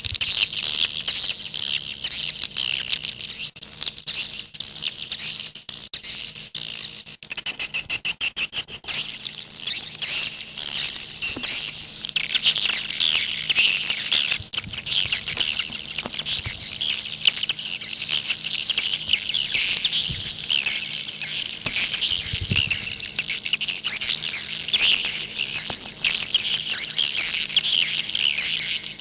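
Swiftlet calling recording: a dense, continuous twittering of many overlapping high chirps, the kind of call played to draw swiftlets to a nesting house. A faint steady hum lies underneath.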